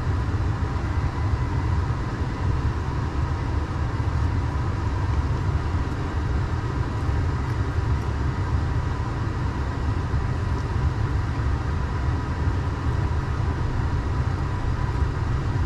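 Steady low rumble of a semi truck's diesel engine idling, heard from inside the cab, with a faint steady whine above it.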